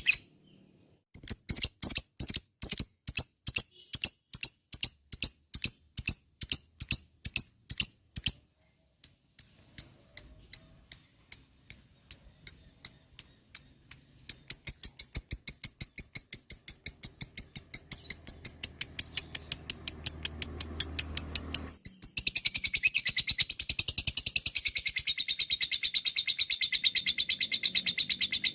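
Lovebird giving its ngekek call: a string of sharp, high chirps about three a second, with a short break about a third of the way in. The chirps then speed up into a long, rapid chattering trill for the second half.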